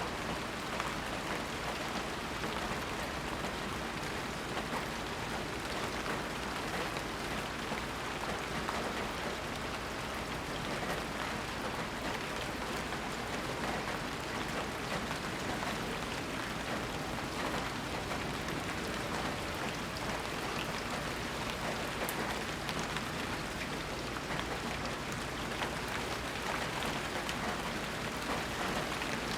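Steady, even rain falling, with many small drops pattering on surfaces and no thunder.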